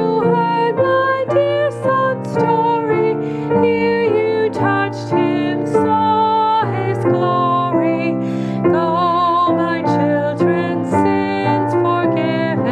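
A hymn sung with vibrato to keyboard accompaniment, the notes changing every half second or so.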